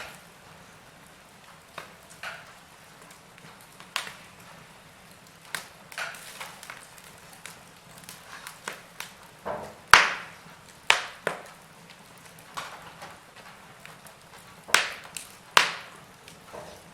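Logs burning in a fireplace, crackling with irregular sharp pops and snaps. The loudest snaps come about ten seconds in and again near the end.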